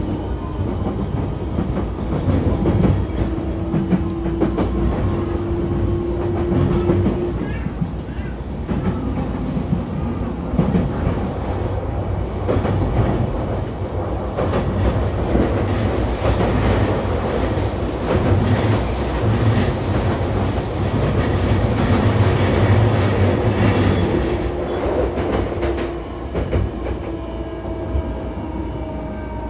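JR East E233-3000 series electric train running: a steady rumble of wheels on rail with repeated rail-joint clicks. A motor whine is heard for a few seconds near the start and again near the end.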